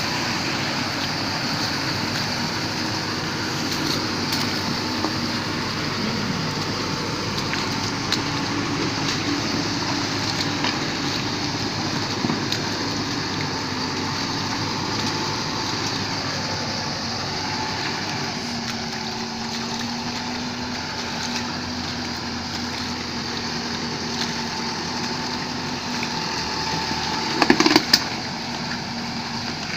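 A motor vehicle driving, with steady engine and road noise whose pitch shifts slowly. A short burst of sharp knocks comes near the end.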